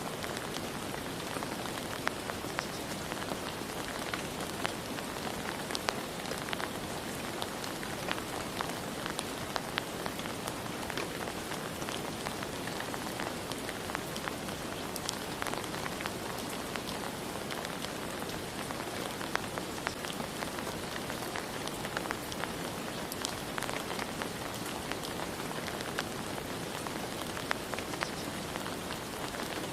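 Steady rain falling, an even hiss with many scattered sharp ticks of single drops striking a surface.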